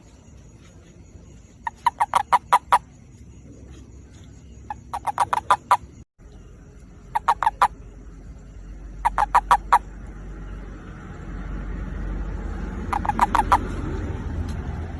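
A male toad giving its mating call: five short bursts of rapid pulsed croaks, each lasting under a second, spaced a few seconds apart. A low rumble of background noise builds up in the second half.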